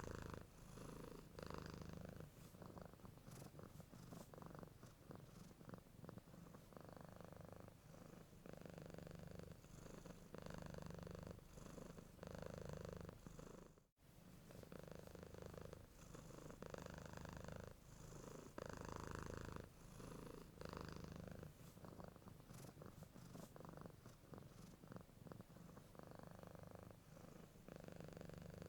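Domestic cat purring, low and steady, swelling and fading in cycles about a second long. The sound cuts out for a split second about halfway through.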